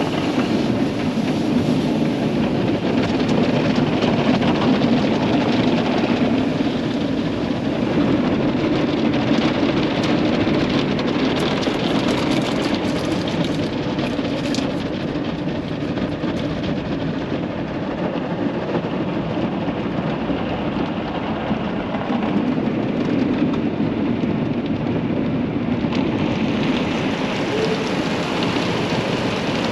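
Car wash water jets spraying onto a van, a steady rush of water on the bodywork.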